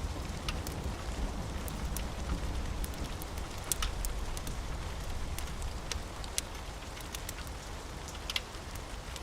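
Steady rain mixed with a crackling wood fire: an even, low rumble of noise under irregular sharp pops and crackles, a few louder than the rest.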